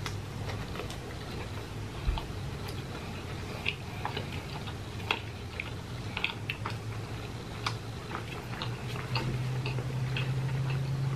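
Close-miked chewing and eating of breaded chicken tenders: many short, irregular wet mouth clicks, over a steady low hum.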